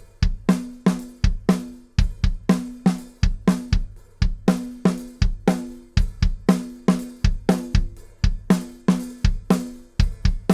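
Kick drum and snare drum played in a steady groove, sharp hits a fraction of a second apart, the snare ringing with a clear pitch. Recorded clean through a 501+ 500-series preamp with its XRL function engaged, input gain all the way down and output all the way up.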